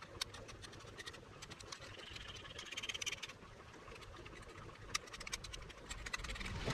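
Scattered small clicks and light taps from hands working over the bench, with a brief faint hiss about two seconds in and a low rumble beginning near the end.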